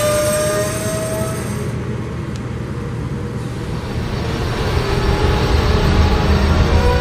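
Diesel freight locomotive horn sounding a chord that cuts off about a second and a half in, followed by the low rumble of the locomotives building as the train draws near; the horn chord sounds again at the very end.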